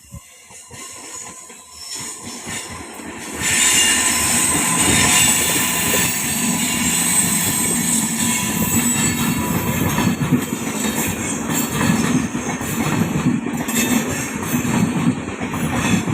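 Golconda Express, an Indian Railways express train, running past at speed. Its wheels clatter steadily over the rails amid a rushing noise that grows louder over the first three seconds and stays loud from about three and a half seconds in.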